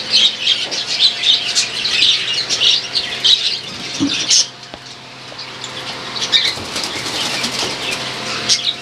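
A colony of budgerigars chattering, with many rapid high chirps overlapping. The calls thin out briefly about halfway through, then build again.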